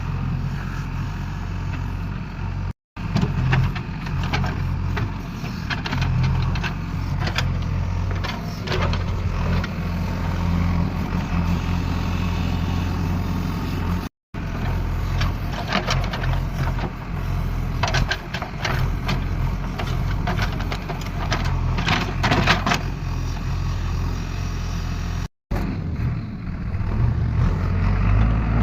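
Motor vehicle engine running steadily with a low hum and scattered rattling, cutting out for a split second three times.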